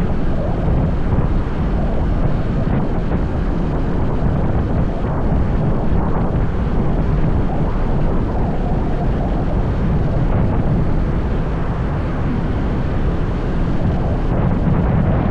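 Motorbike riding at steady speed: a loud, steady low rumble of the engine mixed with wind buffeting the microphone.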